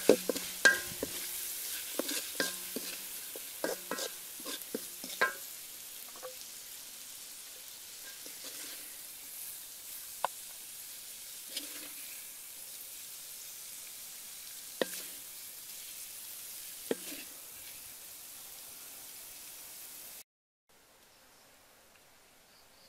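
Eggs in sauce sizzling in a metal wok over a wood fire while a wooden spoon stirs them. The spoon knocks against the wok many times in the first five seconds and now and then after that. The sizzling cuts off about twenty seconds in.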